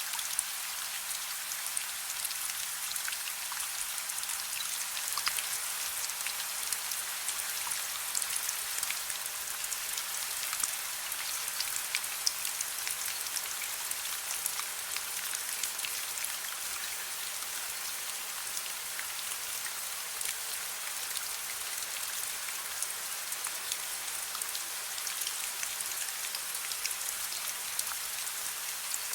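Steady soft rain: a constant hiss with many individual drops ticking on a surface, and a faint steady low hum underneath.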